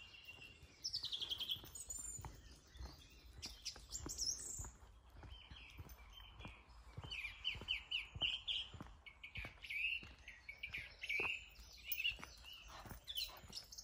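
Several songbirds singing, a busy run of short chirps and trills, over a steady tread of footsteps about twice a second.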